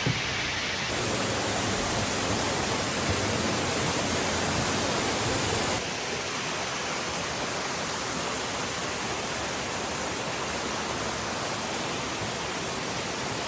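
Steady rush of falling water, an even hiss across low and high pitches, shifting abruptly in tone about a second in and again about six seconds in.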